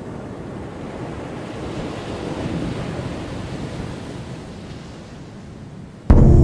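Surf washing over a beach, swelling to a peak and then receding. Near the end, a loud gong-like metallic tone is struck suddenly and rings on.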